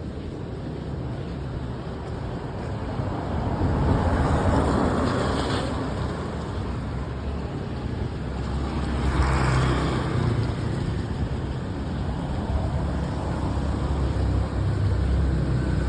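Road traffic: two vehicles pass by, the first about four seconds in and the second about nine seconds in, over a steady low rumble.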